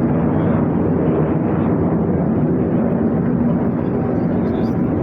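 Aircraft flying past, its engine noise a loud, steady rush.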